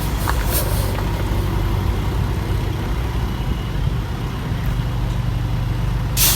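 Semi-truck diesel engine running steadily at low revs, with a short sharp hiss near the end.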